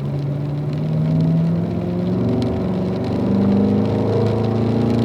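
Car engine accelerating out of a corner, its pitch rising under smooth throttle.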